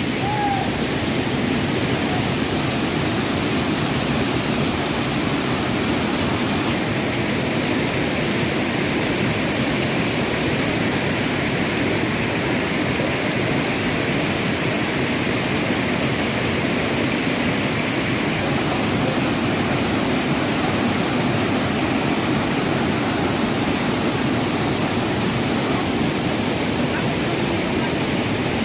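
Steady rushing of a waterfall's falling water, even and unbroken.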